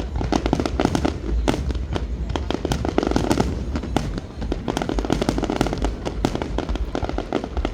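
Fireworks going off in quick succession: a dense, continuous crackle of sharp bangs over a steady low rumble.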